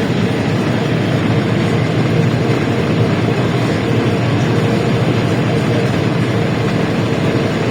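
A LiAZ-677M bus heard from inside while driving: its V8 petrol engine and the road noise run loud and steady, with a constant whine held at one pitch.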